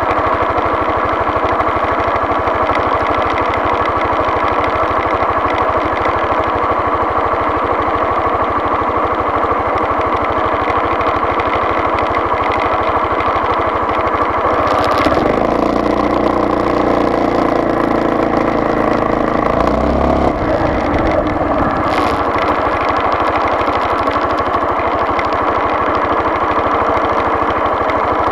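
Vehicle engine running steadily and loudly while under way. For a few seconds around the middle the engine note changes, dropping and stepping in pitch, then it settles back to its steady sound.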